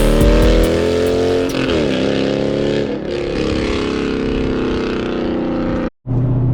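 Cammed 392 Hemi V8 of a Jeep Grand Cherokee SRT8 being revved, its pitch dipping and climbing a few times before holding steady. It cuts off abruptly about six seconds in.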